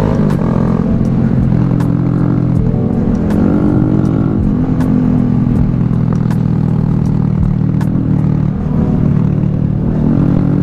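Honda Grom motorcycle engine running under the rider, its pitch rising and falling as the throttle is rolled on and off through a run of corners, with a drop just after the start and another near the end.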